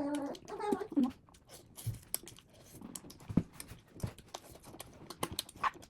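Close-miked eating sounds: scattered short crunches and mouth clicks, after a brief voice-like sound in the first second.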